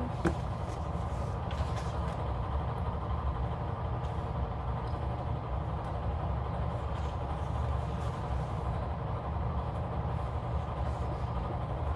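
Steady low background hum throughout, with a few faint ticks and rustles from stickers and paper being handled.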